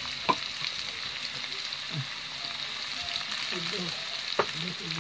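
Potato slices frying in oil in a wok: a steady sizzle, with two sharp clicks, one just after the start and one near the end.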